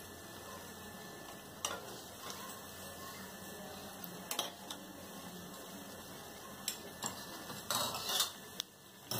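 Potato tikkis shallow-frying in oil in a metal pan, a steady low sizzle, with a few sharp clinks of a steel ladle against the pan, several of them close together near the end.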